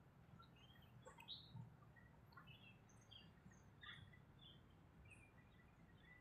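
Faint, scattered bird chirps, short calls a few times a second, over a low steady background hum.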